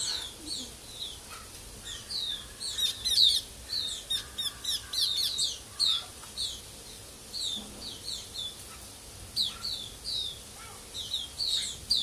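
Small caged birds chirping: a steady run of short, high, falling chirps, several a second, with a burst of quicker, higher twittering from about three to five seconds in.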